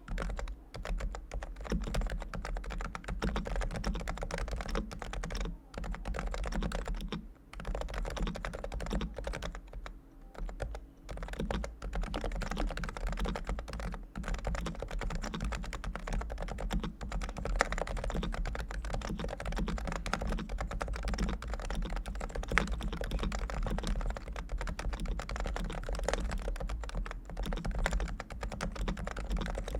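Continuous typing on a Realforce R2 Topre electrostatic capacitive keyboard whose switches have been fully lubricated, the spacebar left unlubricated. A steady run of keystrokes broken by a few short pauses.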